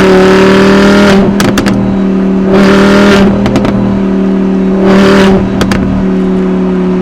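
Audi R8's V10 engine revved in three short blips over a steady held note, with a quick run of sharp pops after each blip.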